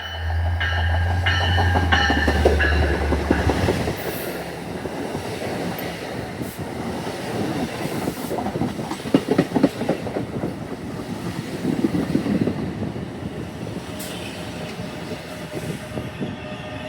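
Commuter train passing close by: a deep engine drone for the first few seconds, then a steady rush of wheels on the rails with many clicks over the joints.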